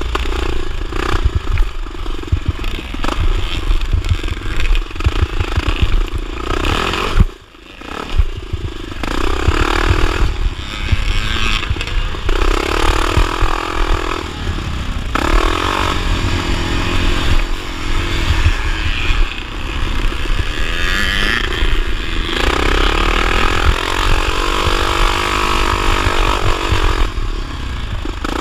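Single-cylinder four-stroke motocross engine of a 1979 Honda XR500, revving up and falling back again and again as it is ridden hard around a motocross track. About seven seconds in there is a sharp knock, then a momentary drop in sound before the engine picks up again.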